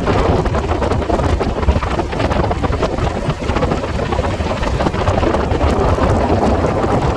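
Telangana Express train running at speed, sped up to double speed: a dense, loud rumble with a rapid scatter of sharp clicks.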